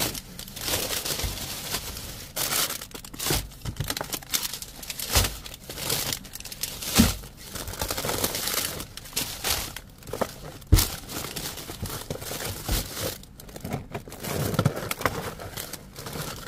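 Plastic bags and food packaging rustling and crinkling as someone rummages through a dumpster, with a few sharp knocks.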